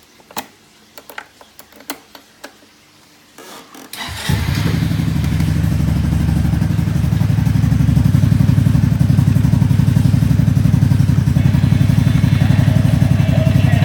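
A few sharp clicks, then a brief starter cranking, and about four seconds in a Honda Fusion scooter's single-cylinder four-stroke engine catches and settles into a steady, evenly pulsing idle.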